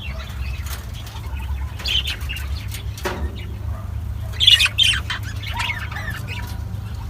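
Pet lovebirds giving short shrill squawking calls, loudest in a cluster about four and a half seconds in, with a brief flutter or knock about three seconds in, over a steady low hum.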